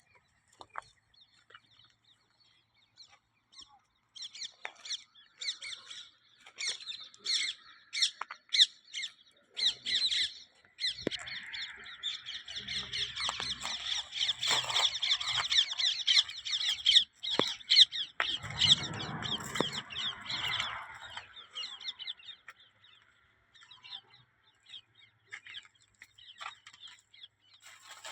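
A flock of fowl calling in a rapid, noisy chatter of many overlapping honks and squawks. It builds from about four seconds in, is busiest in the middle, and thins out near the end.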